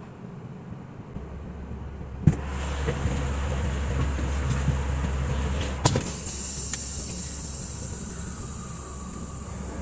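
Semi-truck running, with a steady low hum. A sharp bang comes about two seconds in and a second one near six seconds, followed by a steady high hiss.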